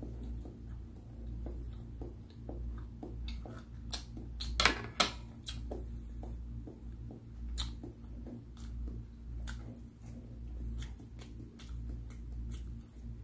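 Close-miked mouth sounds of a person chewing food: a run of scattered wet clicks and lip smacks, with a few louder sharp clicks about five seconds in. A low steady hum runs underneath.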